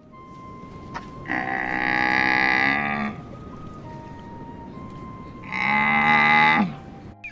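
An animal giving two long, drawn-out calls a few seconds apart, each lasting about one and a half seconds.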